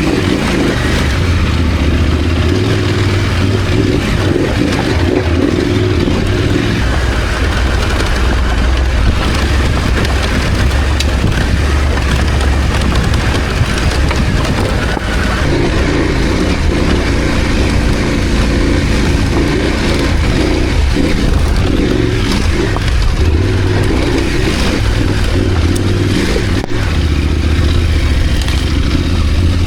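KTM 890 Adventure's parallel-twin engine running under load while riding off-road, its pitch rising and falling every few seconds as the throttle opens and closes.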